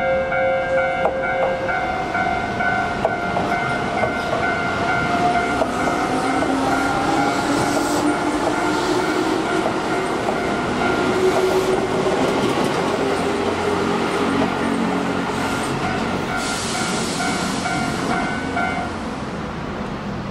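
Keihan electric commuter train pulling out of a station, its motor whine rising in pitch as it accelerates, over steady equipment hum. Another train rattles past on the next track, with a rush of wheel and air noise.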